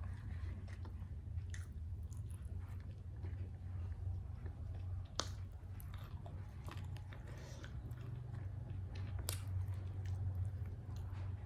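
A person chewing and biting food close to the microphone, with scattered short clicks and mouth smacks, the sharpest about five seconds in and near nine seconds.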